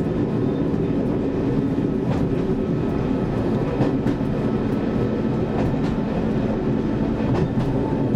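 Class 101 diesel multiple unit running along the line, heard from inside the driver's cab: a steady rumble of engine and running gear, with a few faint clicks of the wheels over the track.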